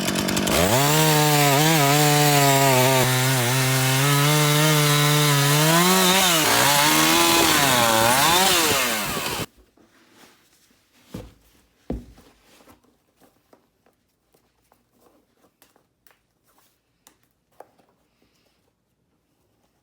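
Husqvarna Rancher two-stroke chainsaw running at high revs, its pitch sagging and recovering as it cuts wood, then stopping abruptly about nine and a half seconds in. Two knocks and a few faint clicks follow.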